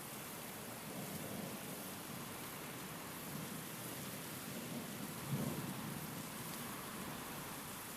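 Steady hiss of rain with low rumbles of thunder, and a short, louder low clap about five seconds in.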